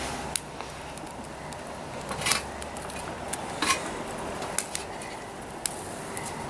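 Dry-grass tinder bundle burning, giving a few scattered sharp crackles over a steady background hiss.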